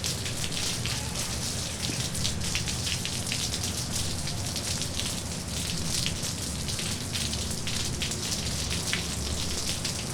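Steady rain pattering on pavement, with a low rumble of distant traffic beneath it.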